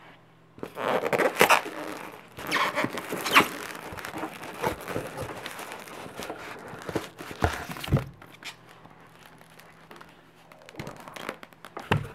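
A cardboard shipping box being handled and opened: irregular scraping, rustling and tearing of cardboard and packing tape, with a few knocks, dying down to quieter handling about two-thirds of the way through.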